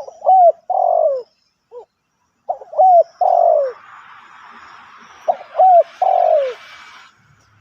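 Spotted dove cooing its song three times, about every two and a half seconds: each phrase is a short coo, a hooked coo, then a longer falling coo. A faint hiss sits behind the last two phrases.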